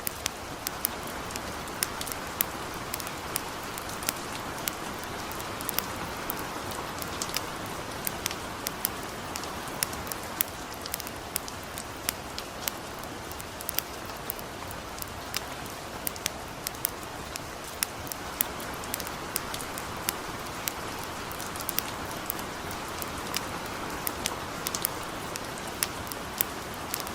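Light rain falling steadily, with a campfire crackling through it in frequent sharp, irregular pops.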